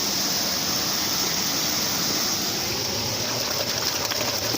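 Steady rush of flowing river water, with a few faint clicks near the end.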